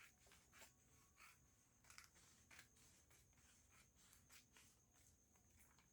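Near silence, with faint, irregular scratches and ticks from work on paper pattern.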